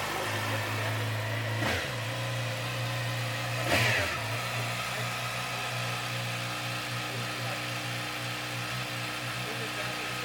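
An engine idling steadily, with two short swells about two and four seconds in; the second is the louder.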